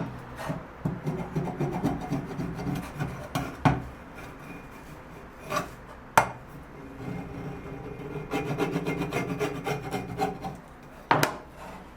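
Wood being rubbed or abraded by hand in quick short strokes, in two bouts, with a few sharp knocks in between and one near the end.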